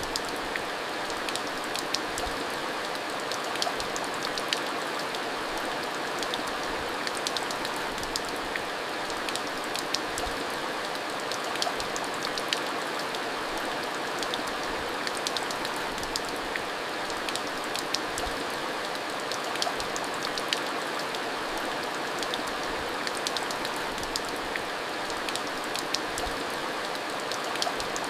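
Steady rain falling, with many individual drops ticking sharply close by throughout.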